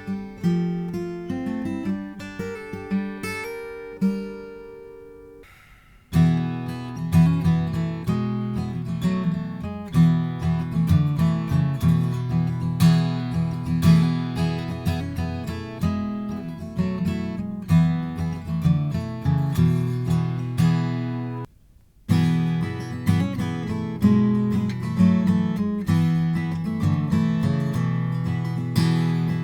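Slope-shoulder dreadnought acoustic guitar being played. A first passage ends on a ringing chord that fades out, then playing starts again abruptly just after six seconds. It breaks off suddenly near twenty-one seconds and resumes about half a second later.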